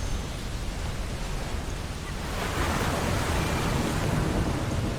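Ocean surf on a beach: a steady wash of waves, with one wave breaking and swelling louder about halfway through before easing off near the end.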